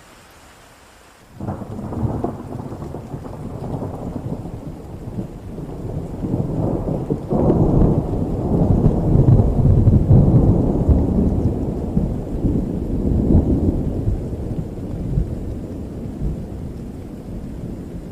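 Rain falling steadily, with a long rolling thunderclap that breaks in suddenly about a second in, builds to its loudest in the middle and slowly rumbles away.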